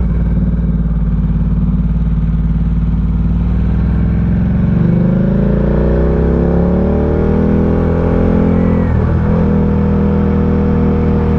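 Ducati Diavel 1260's 1262 cc V-twin engine pulling under way, its note rising for a few seconds from about halfway through. The note breaks briefly about nine seconds in, then runs steady.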